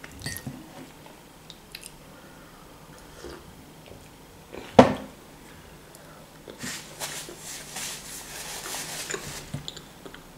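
A person biting into and chewing a piece of baked pie close to the microphone, crunchy chewing noise running from about six and a half to nine and a half seconds in. About halfway through there is one short, sharp, loud knock or smack.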